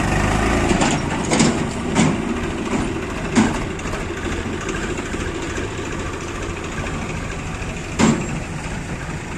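Diesel engine of a backhoe loader or tractor running steadily at low revs, with four sharp knocks, the last a few seconds after the others.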